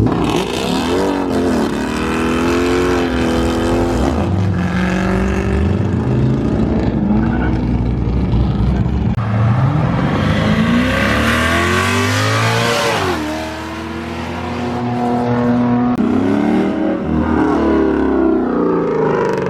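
Performance car engines revving and accelerating hard, one car after another. About ten seconds in, one engine climbs steeply through the revs and drops off sharply near thirteen seconds.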